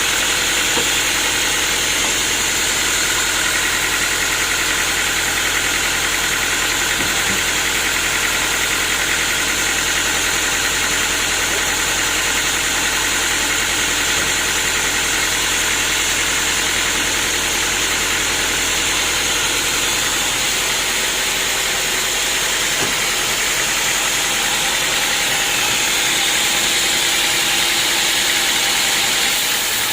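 Sawmill machinery running steadily, a continuous mechanical hum with hiss; the deepest part of the hum fades about two-thirds of the way through.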